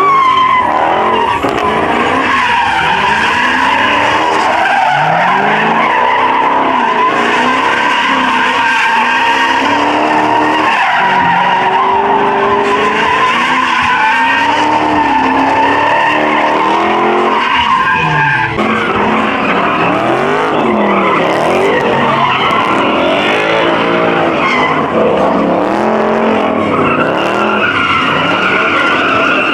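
Muscle car tyres squealing under sustained wheelspin while the engine revs up and down repeatedly. The squeal's pitch shifts about two-thirds of the way through.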